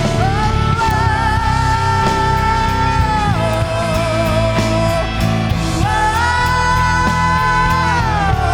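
Worship band playing, with a singer holding long sustained notes over a full rock-style band. The melody slides down a little after three seconds and rises again at about six seconds.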